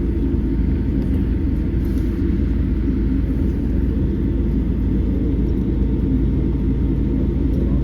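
Steady low rumble of a Boeing 787 airliner and its engines, holding even without rising or falling.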